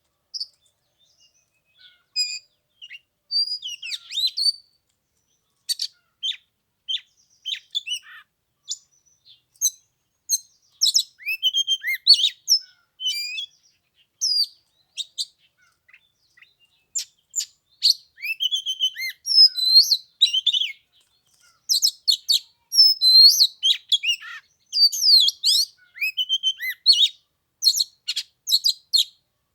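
Oriental magpie-robin singing a varied song of quick whistles, chirps and sweeping notes, in busy phrases broken by short pauses.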